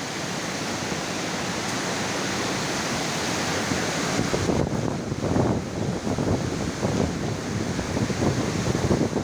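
Heavy storm rain pouring down with strong wind, a dense steady rushing hiss. About halfway through it turns gusty and uneven, with irregular surges of wind.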